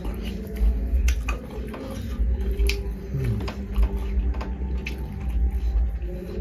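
Close-miked chewing and wet mouth clicks, with soft squishing as rice and curry are mixed by hand.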